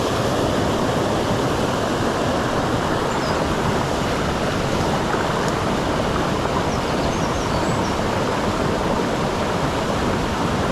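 Mountain stream water rushing steadily, with a few faint high chirps in the middle.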